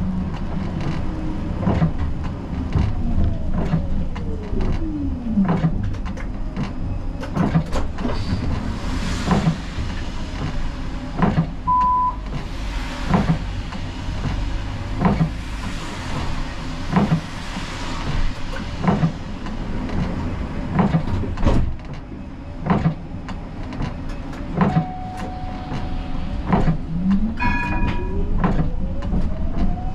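Siemens Combino tram's electric traction drive whining down in pitch as it brakes early on, and whining back up as it pulls away near the end. In between there are soft knocks about every two seconds, several hissing bursts and a few short electronic beeps.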